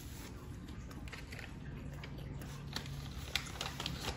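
Close-miked chewing of a turkey sub sandwich: soft, scattered wet clicks and smacks of the mouth working on bread and lettuce.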